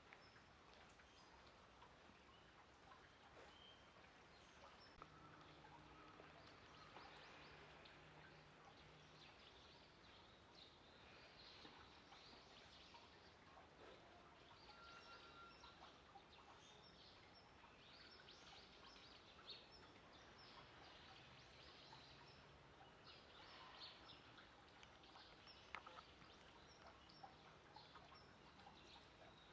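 Near silence: faint outdoor background noise with scattered faint high chirps and, at times, a faint low hum.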